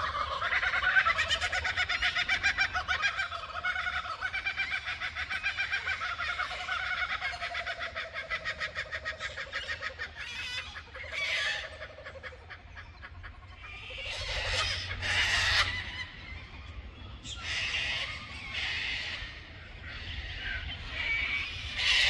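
Birds calling in the forest: a long, rapid chattering call rolls on for about the first ten seconds, followed by several shorter, harsher calls.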